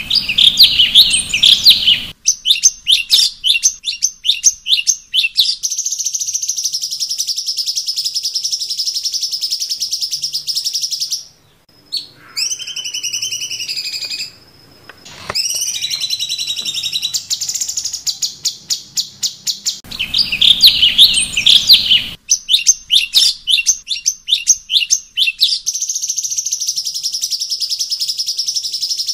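Cucak cungkok songbird singing loudly: fast, rattling runs of high chirped notes, then a brief pause a little past the middle followed by a few sliding whistled notes. The rapid chirping resumes and continues through the end.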